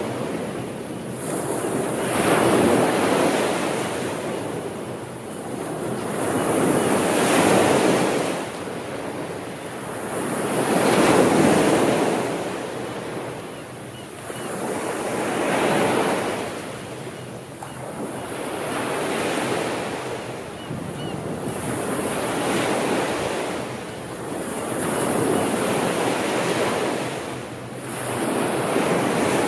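Sea waves breaking and washing on the shore, surging in and falling back in a steady rhythm, about one wave every four seconds.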